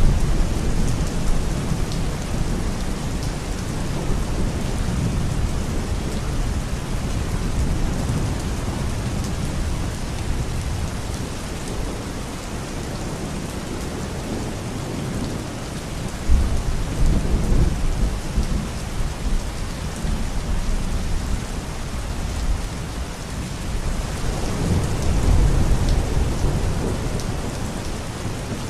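Steady rain with low thunder rumbling under it, swelling about sixteen seconds in and again near the end.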